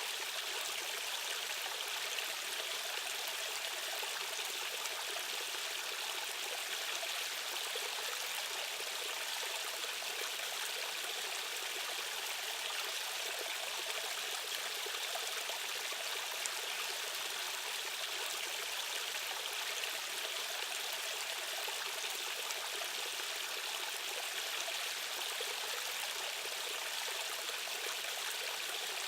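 Fast-flowing stream water rushing steadily, an even hiss with hardly any deep rumble.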